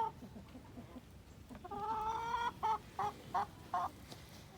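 A chicken calling: one long drawn-out note about two seconds in, followed by four short clucks.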